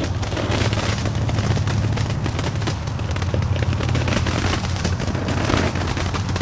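Consumer fireworks crackling and popping in a rapid, continuous string of small cracks, with a steady low hum underneath.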